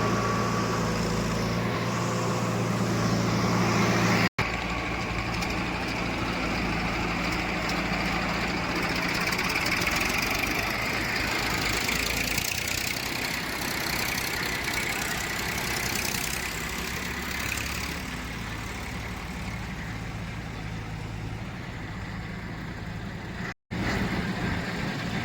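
Heavy diesel engine running steadily, with two brief cut-outs, one about four seconds in and one near the end.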